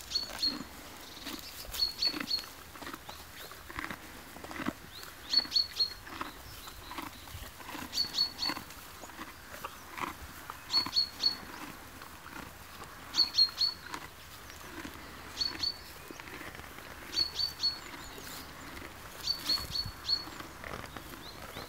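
A small bird repeating a short high call of two to four quick notes about every two seconds, over the soft crunching of a pony chewing hay.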